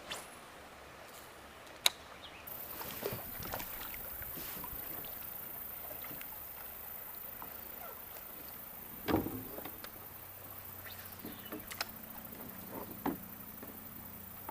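A kayak on a river: a steady wash of water with scattered knocks and clicks, a sharp click about two seconds in, and the loudest thud about nine seconds in.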